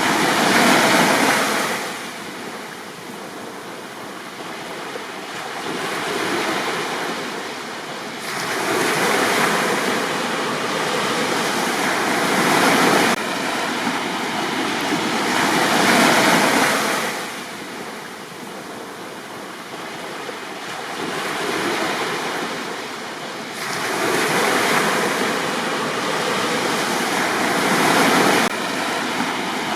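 Sea waves breaking and washing up a beach, swelling and ebbing in four slow surges.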